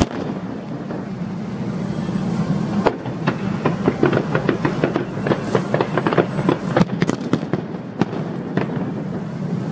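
Fireworks display: a sharp bang at the start, then about three seconds in a rapid run of crackling pops that lasts about four seconds and thins out near the end.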